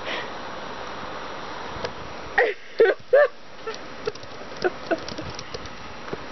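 Three short bursts of laughter from people, followed by a few faint clicks.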